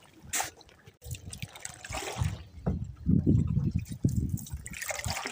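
Water trickling and splashing as a canoe paddle dips and drips, in uneven strokes with low rumbling swishes.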